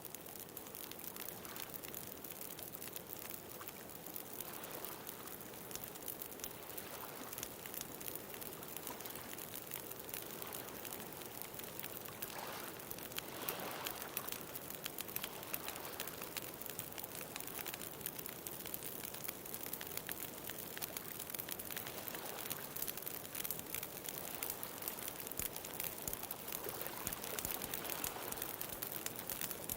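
Wood fire crackling, with many small, quick pops throughout, over the soft wash of ocean waves that swell every few seconds.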